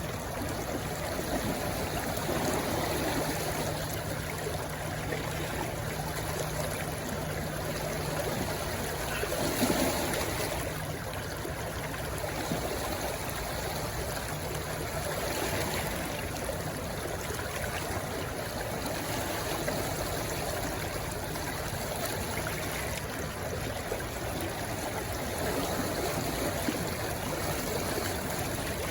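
Shallow stream rushing and trickling steadily where it runs into the sea, with a brief louder splash about a third of the way in.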